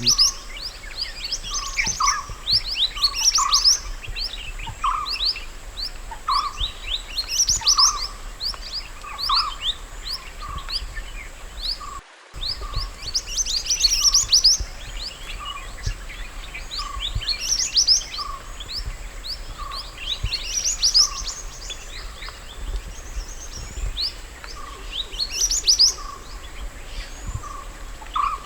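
A mantenan gunung songbird singing: bursts of quick, high, downward-sweeping chirps every second or two, over short lower whistled notes about once a second. There is a brief break about twelve seconds in.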